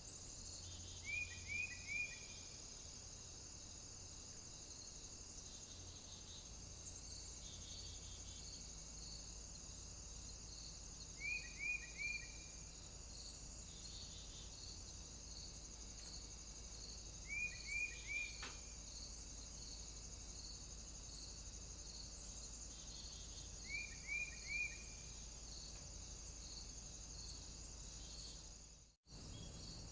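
A small bird calling in short groups of three quick falling notes, four times about six seconds apart, over a steady high hiss with an even pulsing. The sound drops out briefly near the end.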